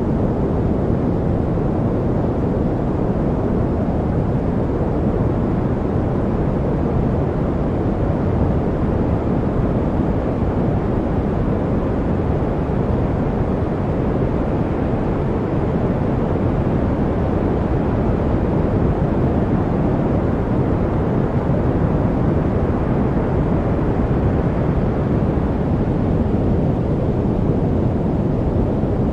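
Continuous steady noise used as white noise for studying, even and unchanging, with most of its energy low down so it sounds deep rather than hissy.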